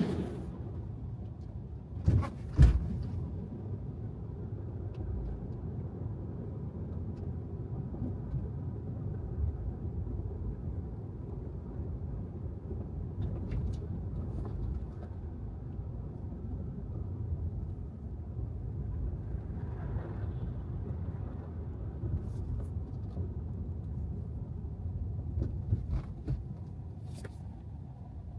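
Tesla Model 3 driving on wet city pavement: a steady low rumble of tyre and road noise, with no engine sound. Two sharp thumps come about two seconds in, and a few faint clicks later.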